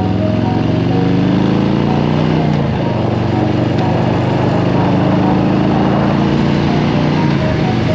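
Harley-Davidson Softail Standard's V-twin engine under way, its pitch rising as it accelerates, dropping sharply at a gear change about two and a half seconds in, then climbing again.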